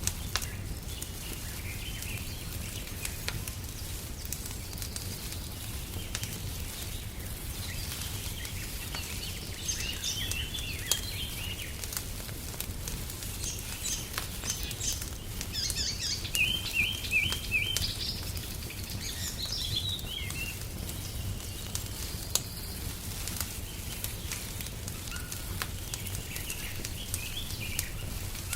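Wood fire crackling in a fireplace: a low steady rumble with scattered sharp pops. Songbirds chirp and twitter over it in short runs, mostly in the middle and again near the end.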